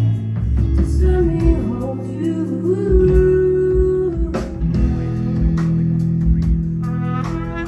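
Live band music: guitar and bass over a drum beat, with sustained and sliding notes.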